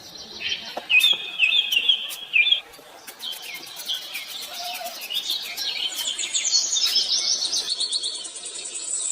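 Small birds chirping in quick series of short notes, with a high, fast trill joining in the second half.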